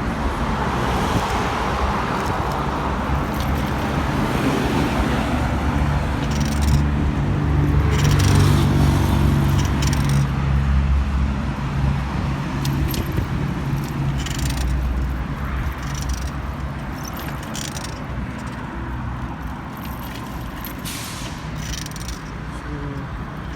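Road traffic heard from a moving bicycle: a steady rush of passing vehicles, with a heavy engine drone that swells to its loudest about eight to ten seconds in as a large vehicle goes by, then fades.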